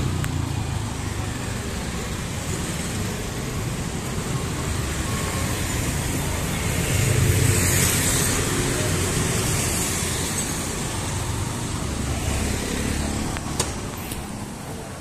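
Road traffic passing: a steady engine rumble and tyre hiss, with one vehicle passing louder about seven to eight seconds in.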